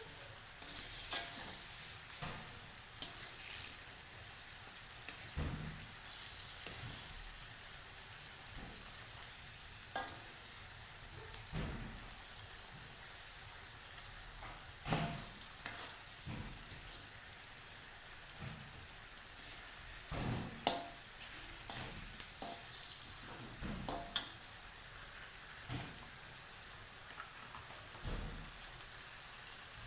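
Fried fish in oyster sauce sizzling steadily in a pan, with scattered knocks and scrapes of a utensil stirring it.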